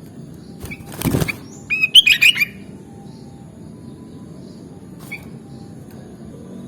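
Sooty-headed bulbul (kutilang) singing a short, quick phrase of several bubbly notes about two seconds in, just after a brief rustle. Steady low background noise runs underneath.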